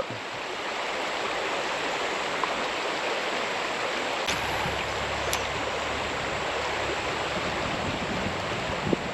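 Creek water running steadily over shallow rocks, an even rushing hiss. A low rumble joins about four seconds in.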